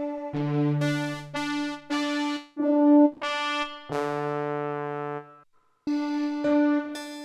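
Yamaha SY22 synthesizer playing a sequence of notes and chords with a low sustained bass note under them twice, with a brief pause about five and a half seconds in before the playing resumes.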